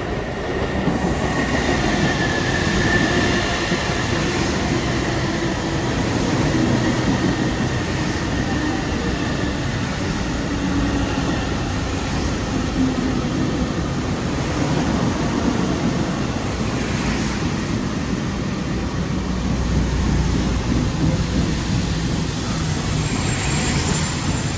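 Long Island Rail Road M3 electric multiple-unit train running past, a steady rumble of wheels on rail with a thin high whine in the first few seconds.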